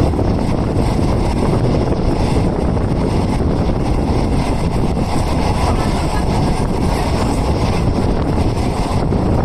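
Steady, loud rumble and rush of a moving passenger train, heard from inside a non-air-conditioned coach.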